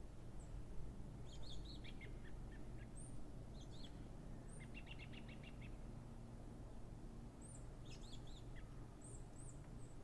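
Small songbirds chirping in short scattered bursts of high notes, with a rapid trill about halfway through, over a steady low rumble of background noise.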